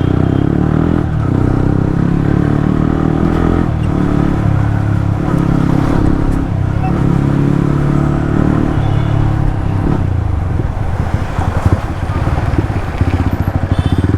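Motorcycle engine running under way, its pitch rising and falling with the throttle, then settling into a lower, pulsing beat in the last few seconds.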